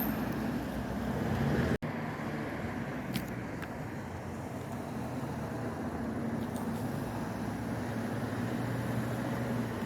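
Steady road traffic noise: car engines running on a village road, with a brief cut-out about two seconds in.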